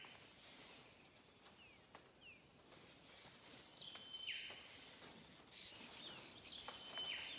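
Birds calling: a whistle held on one high note, then dropping sharply, repeated about three seconds apart, with short chirps between. Faint clicks of barbed wire being handled.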